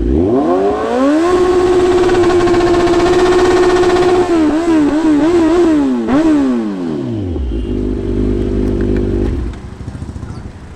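Kawasaki Z900's 948cc inline-four engine revving hard. The revs climb over the first second and hold at a high steady pitch for about three seconds, then waver up and down. Around six seconds in the throttle is rolled off and the revs fall away to a low steady running note.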